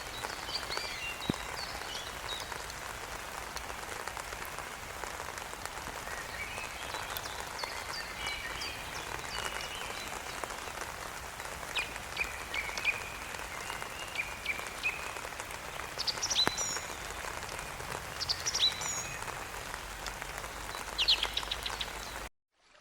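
Steady patter of rain with scattered high, short chirping calls from small animals through it. All of it cuts off suddenly near the end.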